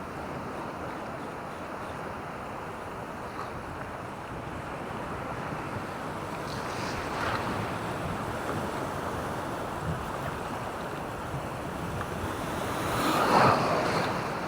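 Surf washing onto a beach in a steady rush, with a louder wave breaking near the end.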